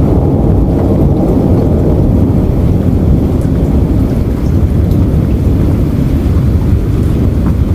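Steady heavy rain, a dense noise weighted toward the deep end, with a few faint separate drop ticks above it.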